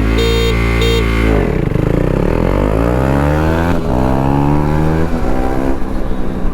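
KTM Duke 390's single-cylinder engine held at steady revs, then launched hard from a standstill: pitch climbs through first gear, drops at a gear change about four seconds in, and climbs again. Two short high beeps sound near the start.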